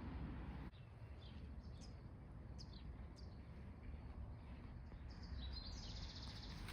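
Small birds chirping in short high notes, then one bird giving a rapid high trill for the last second and a half, over a faint steady low rumble.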